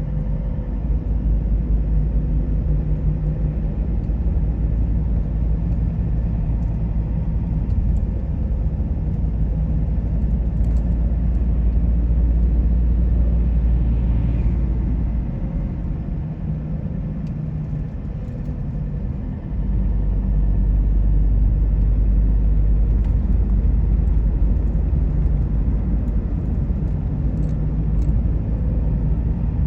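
Car on the move: a steady low rumble of engine and road noise, easing off for a few seconds just past the middle and then coming back.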